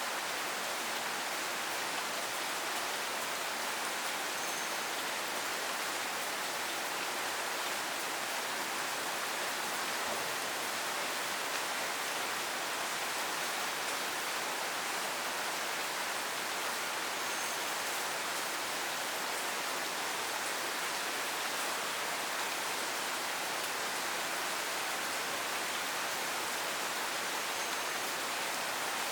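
Steady rain falling, an even, unbroken hiss of many drops with no single drop standing out.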